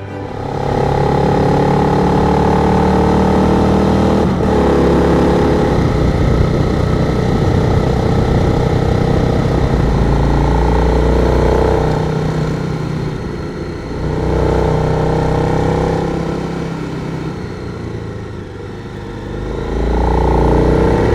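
Twin-cylinder adventure motorcycle engine running under way, its note rising and falling several times as it accelerates and eases off, easing off twice and picking up again near the end.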